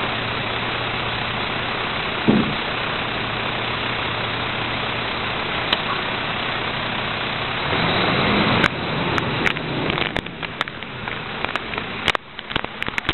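Heil 5000 rear-loader recycling truck running steadily. It swells briefly about eight seconds in, then gives way to a series of sharp clicks and knocks.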